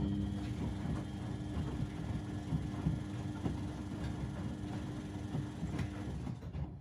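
Washing machines and tumble dryers running together: a steady rumble with light, irregular knocking from the turning drums, over a motor hum that stops about six seconds in.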